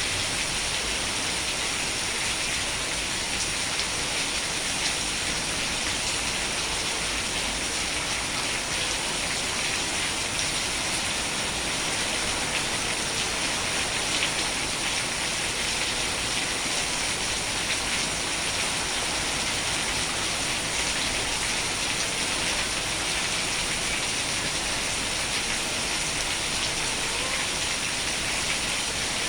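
Steady rain falling on a surface, a dense, even patter with no breaks.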